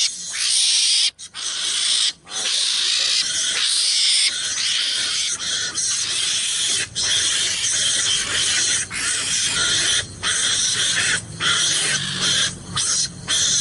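An animal hissing harshly over and over, broken by short pauses, with a low growl joining in over the last couple of seconds.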